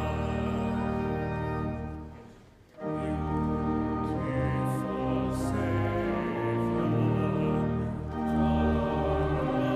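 Sacred music sung by voices with instrumental accompaniment, in sustained held notes. It breaks off briefly between phrases about two and a half seconds in, then resumes.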